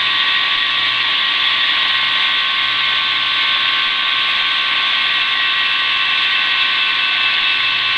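Steady hiss over the helicopter's headset radio and intercom, with faint steady tones beneath it.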